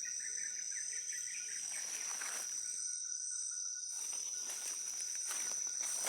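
Steady high-pitched drone of rainforest insects, with a faster chirping lower down for the first couple of seconds. Soft footsteps rustle through leaf litter in the second half.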